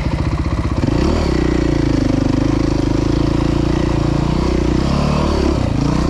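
Dirt bike engine catching and running after being switched off by the kill button, revving up about a second in, then running steadily with the revs dipping and rising again near the end.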